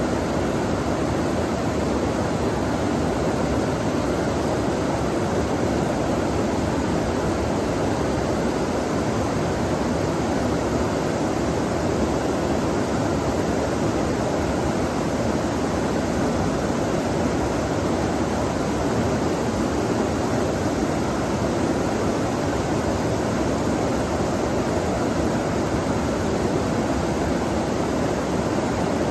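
Flowing water running in a steady, unbroken rush, its sound fullest in the low-middle range.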